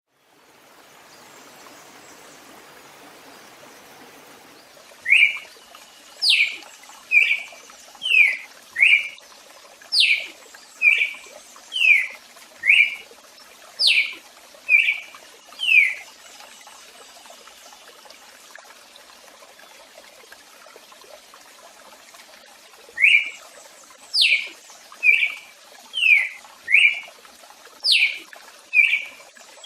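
A bird singing a song of short, clear whistled notes, about one a second, some falling steeply from high. It sings a run of about a dozen notes, pauses several seconds, then starts the same song again, over a faint steady hiss.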